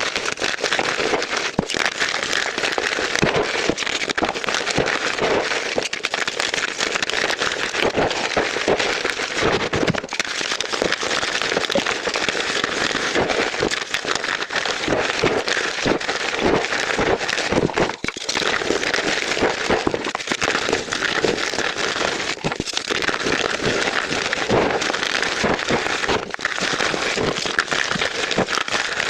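Soft chalk blocks crunching close up: a dense, continuous crackle of small crumbling crunches.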